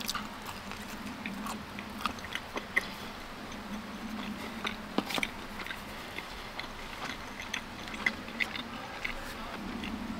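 Close-miked chewing and biting of pizza: irregular sharp mouth clicks and bites over steady chewing.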